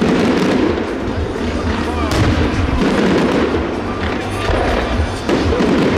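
Aerial fireworks going off in quick succession, repeated bangs and crackles, over a large crowd of spectators talking.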